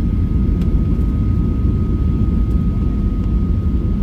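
Steady cabin noise of a Boeing 737-800 heard from inside the cabin: a constant low rumble of engines and airflow with a thin steady whine above it.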